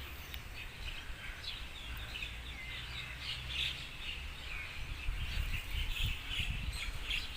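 Several birds chirping and trilling in a busy, overlapping chorus. A low rumble comes in about halfway through.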